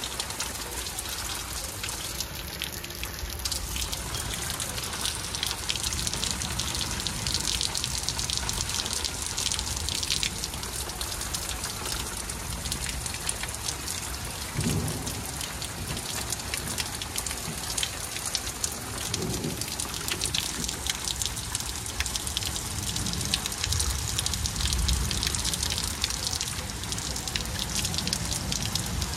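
Heavy thunderstorm rain pouring down steadily, drops pattering on surfaces, with a few low rumbling surges along the way.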